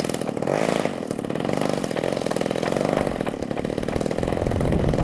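Radio-control model airplane's small engine running continuously, its buzzing pitch rising and falling several times as it flies past and changes throttle.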